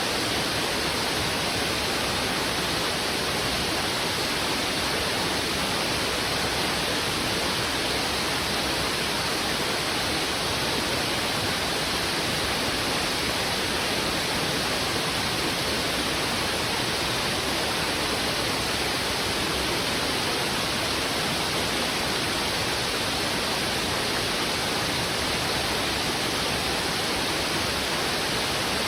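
A fast-flowing river rushing steadily over rocks: a dense, unbroken hiss of water with no changes.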